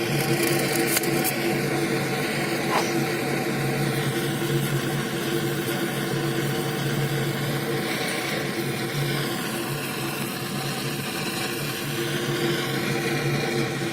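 A motor or engine running steadily at an even pitch, with no revving.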